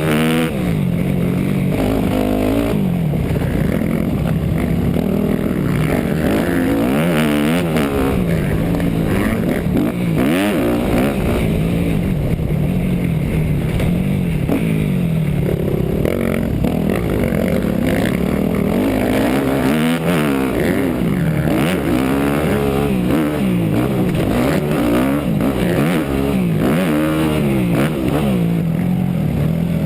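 250 cc four-stroke motocross bike engine heard from on board the bike, revving up and down over and over as it accelerates, shifts and slows.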